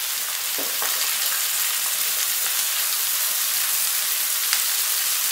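Cubed raw pumpkin frying in hot oil in a pan: a steady sizzling hiss, with a couple of faint clicks.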